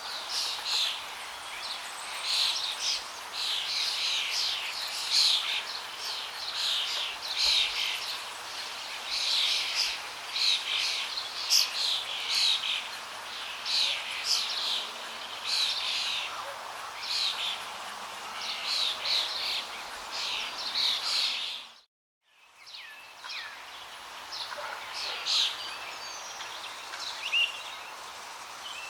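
Many birds chirping and calling in quick succession over a steady rush of flowing water. About three-quarters of the way through, the whole sound cuts out abruptly for under a second, then comes back in.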